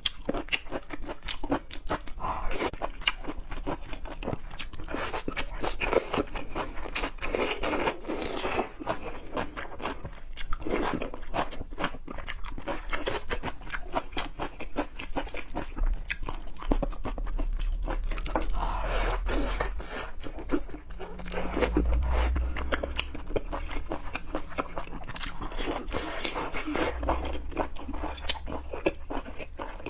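Close-miked eating of seafood: continuous wet chewing with many small crunches and clicks.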